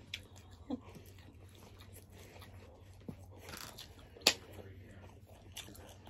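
People chewing food close to the microphone, with small wet mouth clicks and one sharp click about four seconds in.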